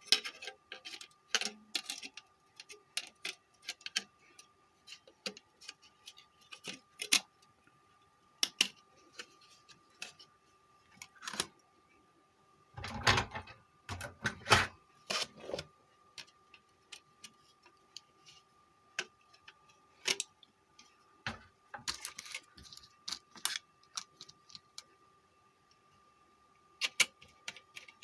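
Irregular clicks and light metallic knocks of a car stereo's metal case being fitted back on and screwed shut, with a few louder clattering bursts. A faint steady hum runs underneath.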